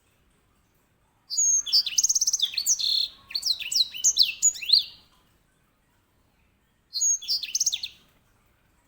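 Grey singing finch (white-rumped seedeater) singing: a long rolling phrase of quick trills and sweeping high notes lasting about four seconds, then after a pause a shorter phrase of the same kind near the end.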